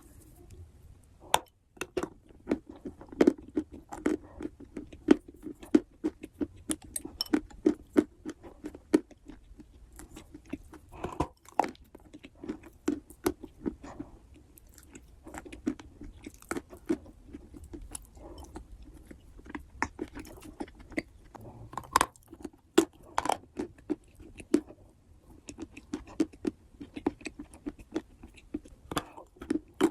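A person biting off and chewing big mouthfuls of wet clay: a continuous run of chewing strokes broken by frequent sharp clicks.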